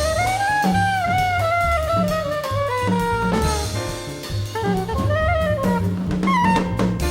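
Jazz band playing an instrumental passage. A lead melody line glides upward, then winds down with turns, over drums and a repeating low bass figure.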